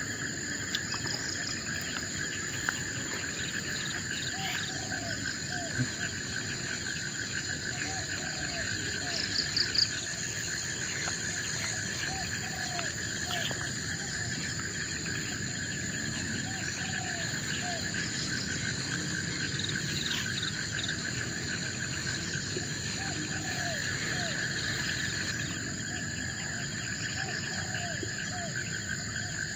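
Forest insect chorus: a steady high-pitched buzz over a fast pulsing trill, with short, low, upward-curving calls scattered through it and one brief louder chirping call about ten seconds in.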